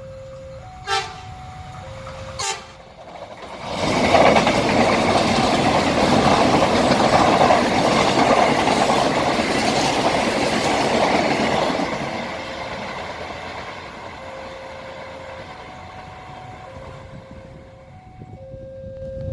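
A railway level-crossing warning chime alternating between two tones, with two short sharp sounds early on. About three and a half seconds in, a train passes close by, loud for about eight seconds, then fades while the chime keeps going.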